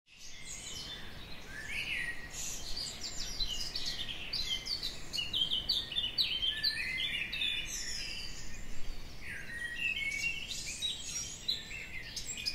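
Songbirds singing: a busy chorus of quick, high chirps and short trills, several birds overlapping.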